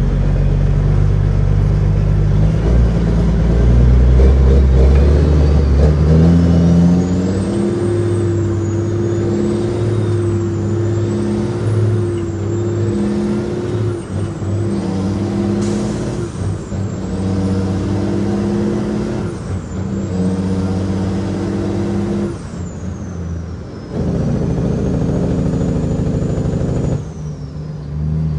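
Loaded Kenworth W900L truck's 6NZ Cat inline-six diesel engine pulling under load. The engine note climbs about six seconds in, then breaks and dips several times, with a thin high whistle wavering up and down above it.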